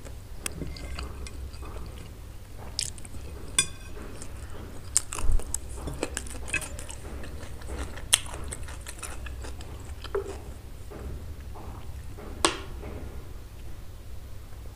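Close-miked eating sounds: chewing and biting, with scattered sharp clicks and a metal spoon clinking against a ceramic plate, over a steady low hum.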